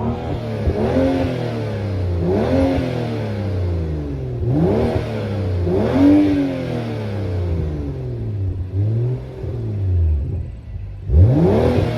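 Straight-piped BMW F10 exhaust as the engine is revved in place, blipped up and let fall back about six times, with burbles as the revs drop.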